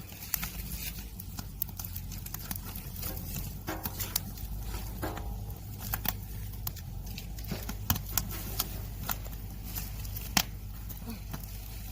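Wood fire crackling in an agungi, a traditional Korean firebox: irregular sharp pops and snaps over a low steady rumble, with a louder pop a little before the end.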